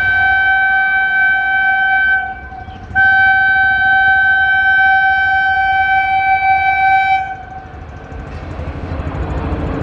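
Indian Railways train horn sounding on one steady pitch: it cuts off about two seconds in, then gives a second, longer blast of about four seconds. After the horn stops, the rumble of the approaching train grows louder.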